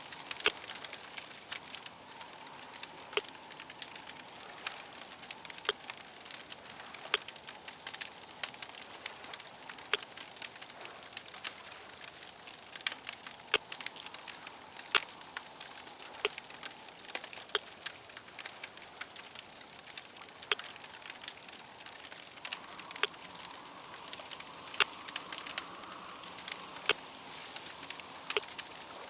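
Wood fire crackling: many irregular sharp pops and snaps over a steady soft hiss.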